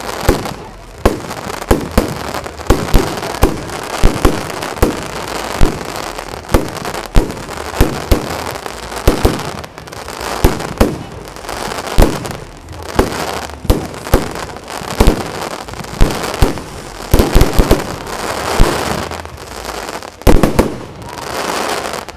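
Fireworks going off in quick succession: a continuous string of sharp bangs, about one or two a second, over a steady crackle.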